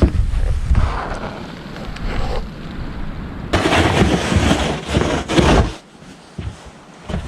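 Wind buffeting the microphone with a low, uneven rumble, swelling into a louder rushing gust from about halfway through before easing off.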